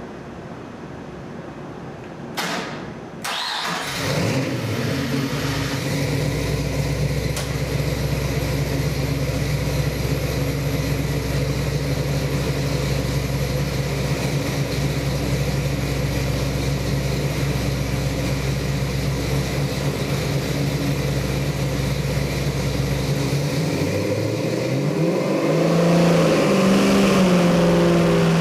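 Ford 302 small-block V8 crate engine, fitted with a hydraulic roller camshaft and a Street Demon carburetor, starting on a dyno stand. It catches about four seconds in and then runs steadily at a fast idle. Near the end it revs up, its pitch rising and the sound getting louder.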